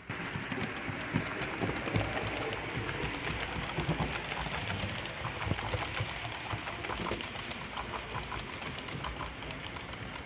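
Model train running on the layout track, its wheels making rapid, closely spaced clicks and a steady rolling rattle over the rails.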